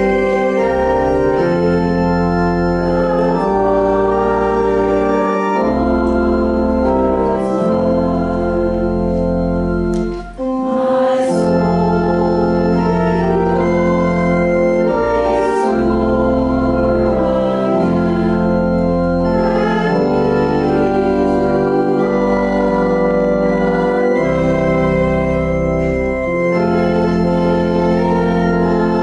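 Church organ playing a hymn tune in slow, sustained chords over a low bass line, with a brief break about ten seconds in.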